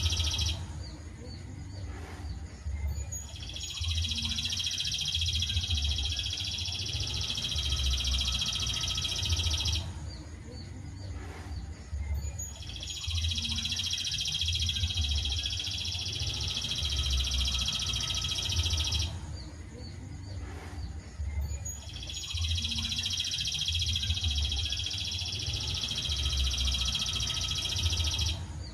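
Masteran recording of small songbird song: dense, high-pitched chirping and trilling in bursts of about six seconds, each followed by a pause of about three seconds, the pattern repeating like a loop. A low rumble runs underneath.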